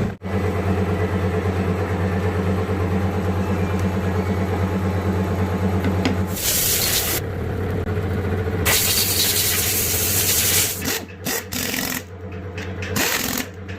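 A steady machine hum for about six seconds. Then several loud bursts of hissing, like air or spray being blown, each lasting about one to two seconds.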